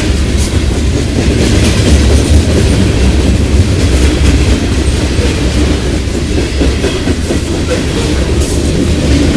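Freight cars of a long CSX freight train rolling past: a steady loud rumble with the clickety-clack of wheels over rail joints.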